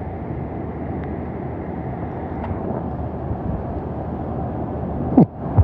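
Hurricane-force wind blowing steadily, a dense rushing noise, as the gusts pick up again. Two sharp knocks come near the end.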